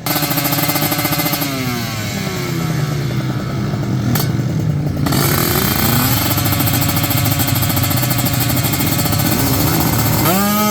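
Two-stroke drag-racing motorcycle engines running at full throttle in a sprint, the engine pitch sweeping down and climbing back up several times, with a fresh rising engine tone near the end.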